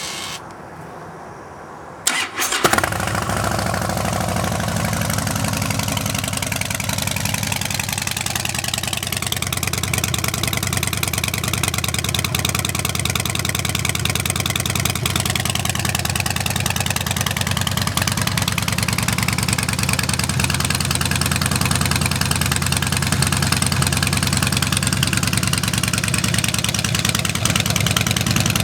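2011 Harley-Davidson Super Glide Custom's Twin Cam 96 V-twin starting through a Vance & Hines Big Radius 2-into-2 exhaust. After a click about two seconds in it fires up, then settles into a steady idle.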